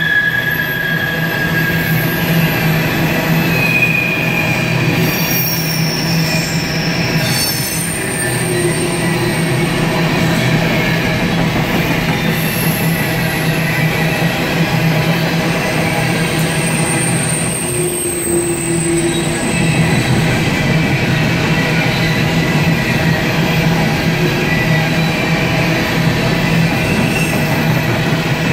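CSX coal hopper cars rolling past at steady speed, wheels rumbling and clattering on the rails. High thin wheel squeals come and go as the cars round the curve.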